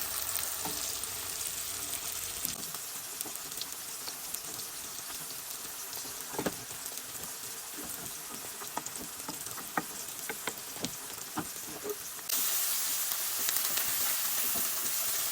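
Onions, tomato and spices frying in hot oil in a pan for a tempering: a steady sizzle with scattered sharp pops. The sizzle turns suddenly louder about twelve seconds in.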